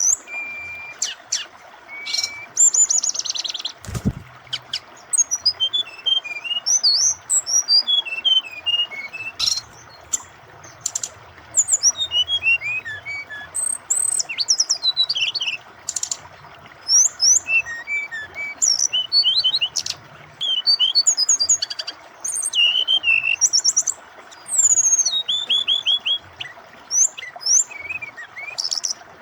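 A brown-chested jungle flycatcher (sikatan rimba dada coklat) singing a fast, varied song of chirps, trills and whistled notes with hardly a pause, over the steady rush of flowing water.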